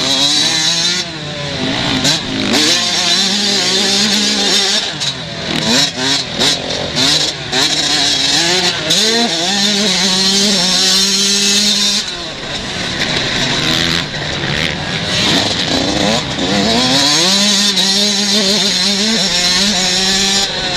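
Motocross bikes of the 125 cc class racing, engines revving up and falling off again and again as they work around the track, at times more than one bike heard at once.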